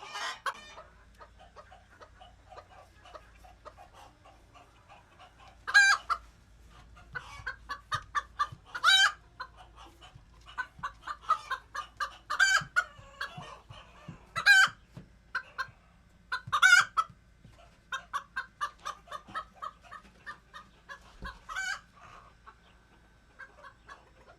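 Chickens clucking in quick runs of short notes, with about five louder, sharper calls spread through.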